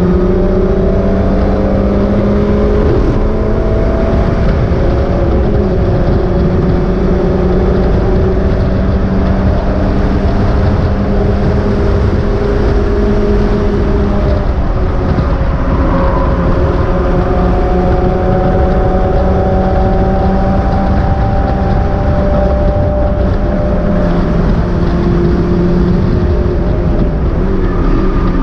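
Mazda MX-5 race car's four-cylinder engine running hard at racing speed, its note rising and falling gently over heavy wind and road noise.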